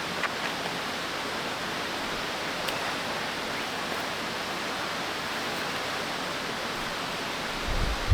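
Waterfall and river water rushing with a steady, even noise.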